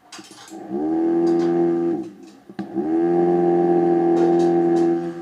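Toy DC motor of a homemade battery table fan spinning up and running with a steady whirring hum, its pitch rising as it gets up to speed. It cuts out about two seconds in, then spins up again and runs on steadily.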